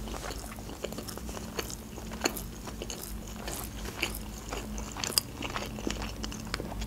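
Close-miked chewing of a sushi roll: wet mouth clicks and soft crunches, irregular, several a second.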